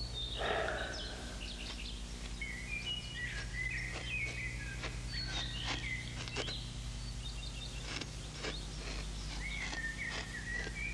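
Small birds chirping repeatedly over a steady low hum, with a few faint clicks.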